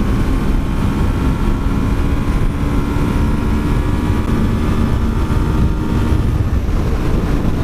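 Yamaha R3's parallel-twin engine running steadily at highway speed, with heavy wind noise on the microphone.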